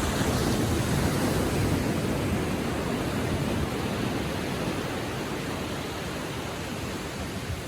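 Small Atlantic waves washing up the beach: a rush of surf that peaks in the first couple of seconds and slowly dies away as the water draws back.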